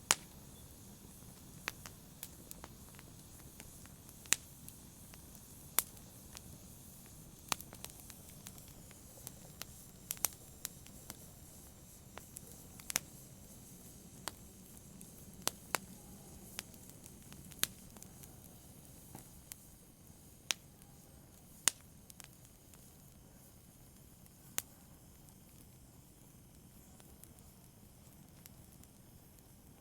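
Wood fire in a fireplace crackling: sharp, irregular pops and snaps over a soft steady hiss, the pops thinning out over the last several seconds.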